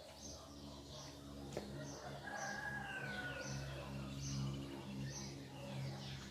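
Birds singing: one bird repeats a short high chirp over and over while other birds call, and a rooster crows in the distance about two seconds in. A low steady hum runs underneath.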